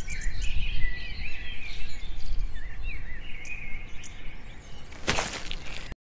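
Small birds chirping and twittering over a steady low outdoor rumble, with a short burst of noise about five seconds in; the sound cuts off suddenly near the end.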